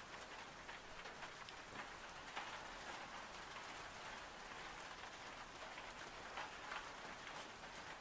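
Faint, steady rain ambience, with scattered single drops ticking through it.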